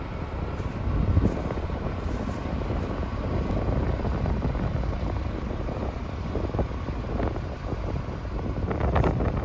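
Diesel engines of heavy earthmoving machinery running steadily, with a few faint knocks near the end.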